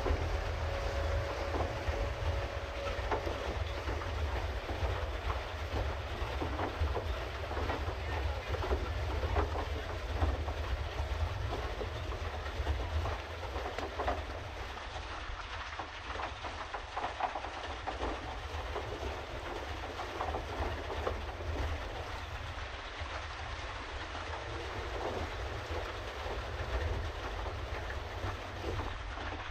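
A pedal boat under way, its pedal drive and paddle wheel clattering and churning water over a steady low rumble. A faint steady tone dies away in the first few seconds.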